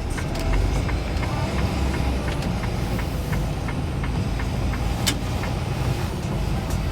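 Steady low rumble of a semi-truck driving on the road, heard over background music with a steady beat of light ticks.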